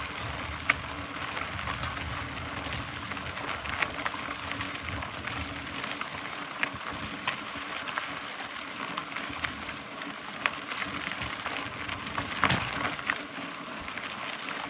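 Mountain bike rolling over a dirt and gravel trail: a steady hiss of tyres on loose ground with scattered sharp clicks and rattles, the loudest about twelve seconds in.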